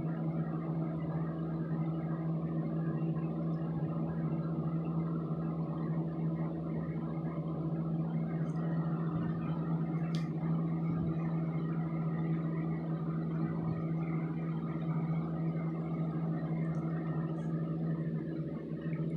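A steady low mechanical hum, like a fan or household appliance running, with one short click about ten seconds in.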